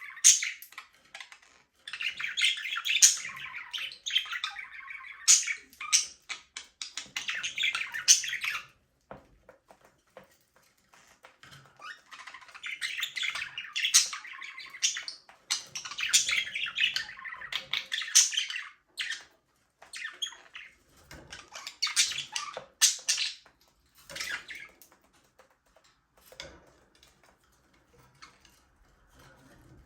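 Budgerigars chirping and chattering, several birds at once, in bouts of a few seconds broken by quieter gaps.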